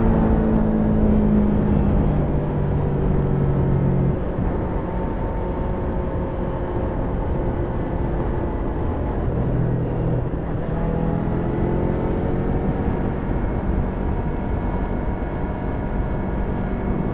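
Yamaha YZF-R3's stock 321 cc parallel-twin engine running on the move at part throttle. Its pitch eases down over the first few seconds, then climbs again in the later part, over steady road noise.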